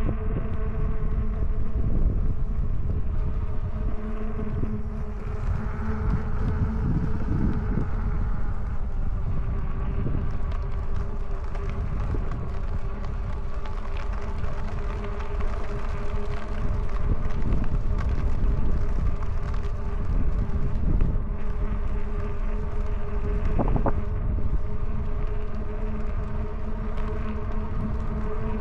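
E-bike riding along a trail: wind buffeting the microphone over a steady whine from the electric hub motor, with tyre rumble and a few light clicks and rattles.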